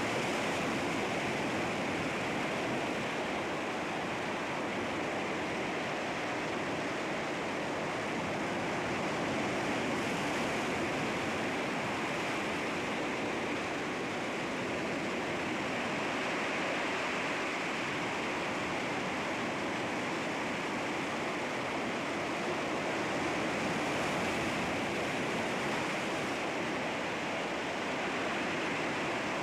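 Sea waves washing against rocks: a steady rush of surf that swells and eases gently every few seconds.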